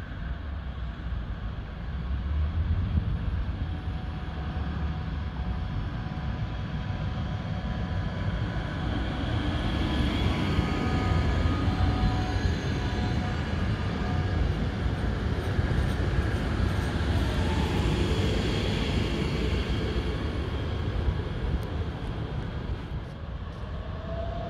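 Electric multiple unit train passing close by, wheels rumbling on the rails under a faint whine of steady tones. Near the end a rising whine starts as another train approaches.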